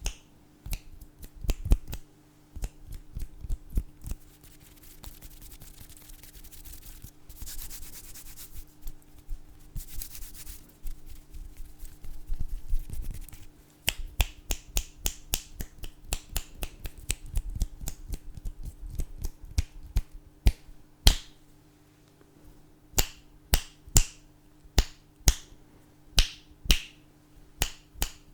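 Fingers snapping over and over, in quick runs at first and then as single snaps spaced about half a second or more apart near the end. A soft hissing noise rises in the first half, and a faint steady hum runs underneath.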